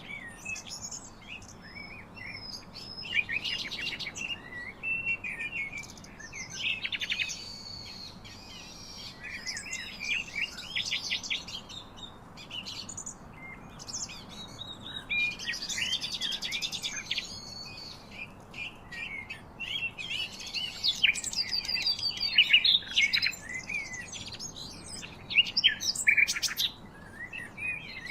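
Several songbirds singing and chirping together, many overlapping trills, whistles and short chirps that never let up.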